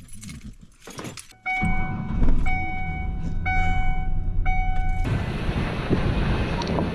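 Faint clicks and rustling, then a loud low rumble starts with a steady pitched tone repeating about once a second. About five seconds in the tone stops and steady wind noise on the microphone takes over.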